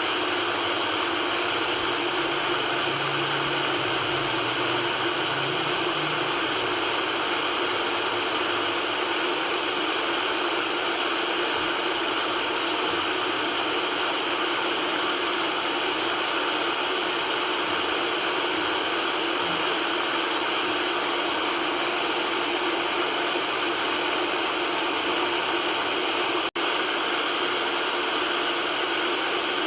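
Steady white noise hiss with little bass, at an even level, cutting out for a split second near the end.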